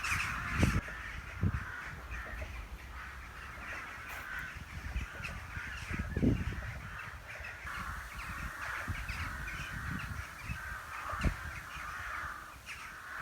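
Many crows cawing at once in a continuous chattering chorus, with scattered dull low thumps underneath.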